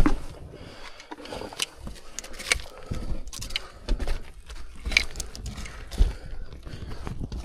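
A person crawling and turning around in a cramped mine tunnel: irregular scuffs, scrapes and knocks of boots, knees and hands on rock and gravel, with breathing close to the microphone.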